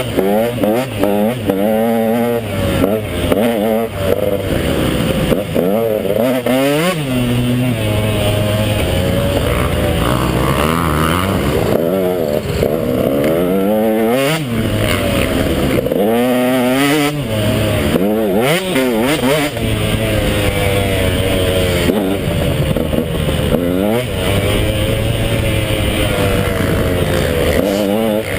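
KTM 150XC two-stroke dirt bike engine being ridden hard, its pitch climbing and dropping over and over as the throttle is worked and the gears change.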